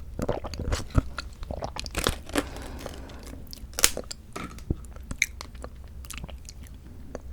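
Close-miked chewing and biting of mandarin orange segments from a fruit cup: wet, squishy mouth sounds broken by frequent short, sharp clicks.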